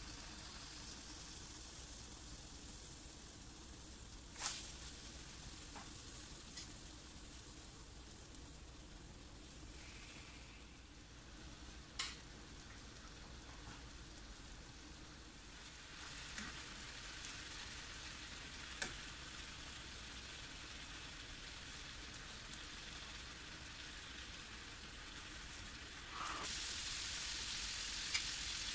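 Marinated chicken pieces sizzling in hot oil in a non-stick frying pan: a steady high hiss, with a few sharp clicks, growing louder near the end.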